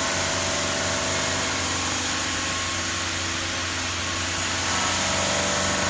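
Denver 5-axis CNC bridge saw running steadily mid-cut, its blade working through a curve in 20 mm black granite: a constant machine hum with an even hiss, getting slightly louder near the end.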